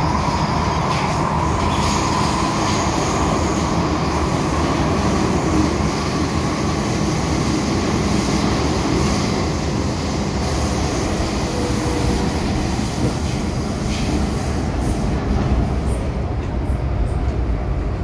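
MTR M-Train electric multiple unit running on the rails: a steady rumble of wheels and running gear, with a faint whine that fades in the first few seconds.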